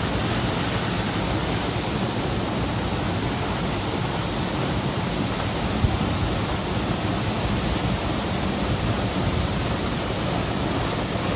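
Steady, loud rush of falling water, typical of a waterfall heard close up.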